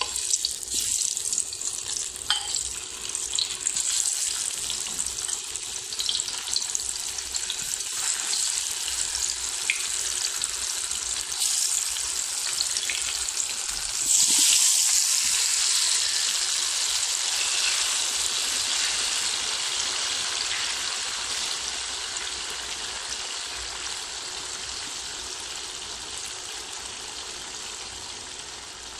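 Hot oil sizzling and crackling as spice-coated kakrol (spiny gourd) halves and potato strips go into the pan. It jumps suddenly louder about halfway through, when the rest of the bowl is tipped in, then slowly dies down as the oil settles.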